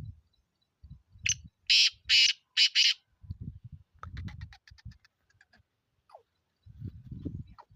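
Black francolin calling: a quick run of five loud, harsh notes about a second in, followed by a fast rattle of short clicking notes. Low thumps and rumbles come and go underneath.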